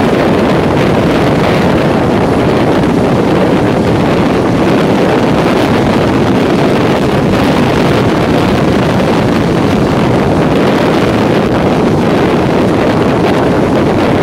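EMU local train running at speed, heard on board as a steady, even rumble, with wind on the microphone.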